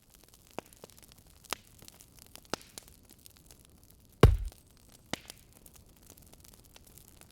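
Wood fire crackling, with scattered sharp pops over a low hiss. About four seconds in there is a single loud, deep thump.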